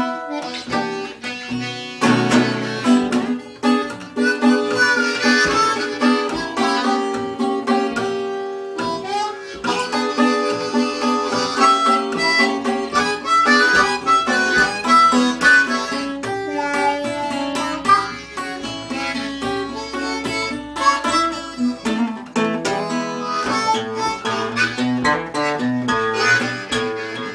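Blues harmonica playing an instrumental solo over guitar accompaniment.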